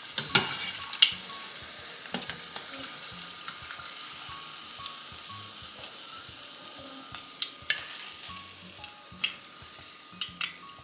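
Food frying in hot oil: a steady sizzle with scattered sharp clicks of a utensil against the pan.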